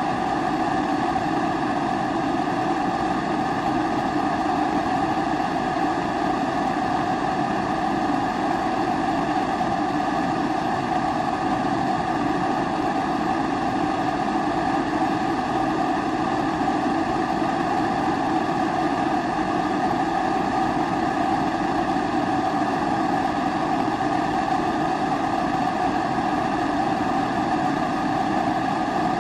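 Kerosene pressure stove (Primus-type babour) burner running with a steady, even rushing noise of pressurised vapour burning.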